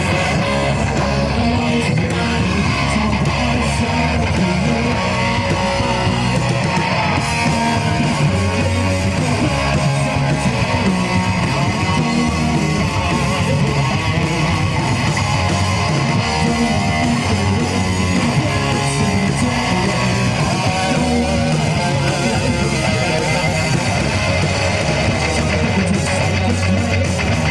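Live rock band playing an instrumental passage: strummed, distorted electric guitars over bass and drums, loud and steady.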